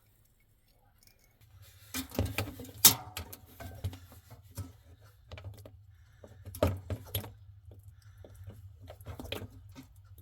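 Irregular clicks, taps and light rattles of objects being handled, over a faint low hum. They begin about a second and a half in; the loudest knocks come about three seconds in and again near seven seconds.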